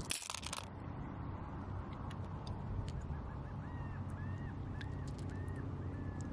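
A bird calling a quick series of about eight short, arched notes in the second half, over a steady low background rumble. A brief burst of noise comes right at the start.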